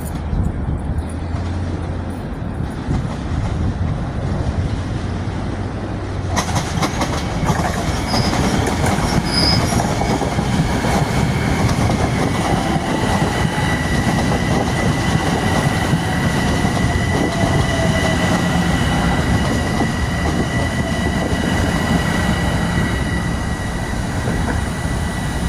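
Metro-North train passing close by on the rails: a low rumble, then about six seconds in a rush of wheel noise with clicks over the rail joints, and from about twelve seconds in a steady high-pitched wheel squeal.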